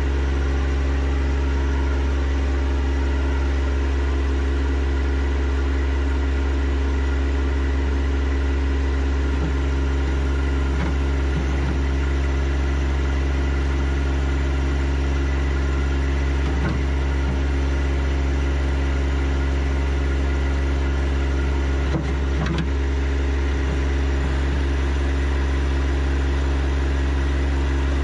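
John Deere 1025R compact tractor's three-cylinder diesel engine running at a steady speed, with a few brief knocks.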